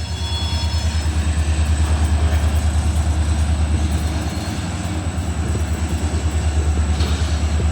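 Union Pacific diesel locomotive engine running with a steady, evenly pulsing low rumble.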